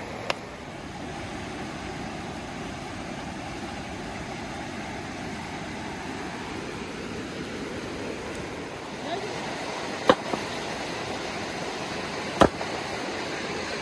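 Small stream running steadily, with a few sharp knocks, the loudest about twelve and a half seconds in.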